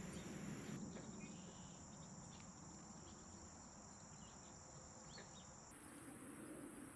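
Faint, steady, high-pitched insect chorus. Its pitch jumps abruptly about a second in and again near the end, where the audio cuts between takes. A few faint short chirps sound over it.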